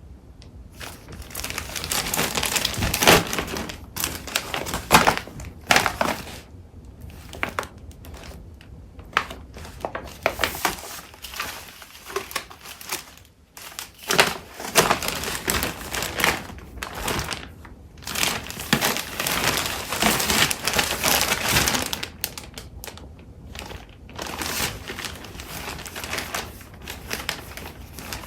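Paper crafting supplies being handled: sheets of paper and crinkly packaging shuffled and rustled in irregular bursts, with a short pause about halfway.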